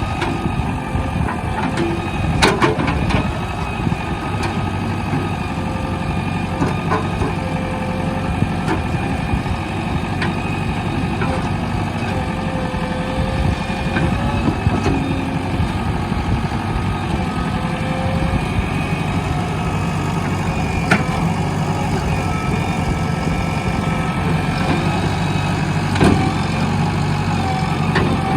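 Heavy diesel engines of a backhoe loader and tractors running steadily, with a few sharp knocks.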